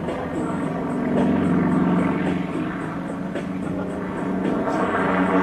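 Sukhoi SU-31's nine-cylinder radial engine and propeller running in flight, the drone swelling louder about a second in, easing, then rising again near the end.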